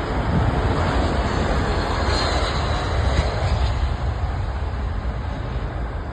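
Aircraft engine noise: a steady, loud rumble and roar that eases slightly after about four seconds.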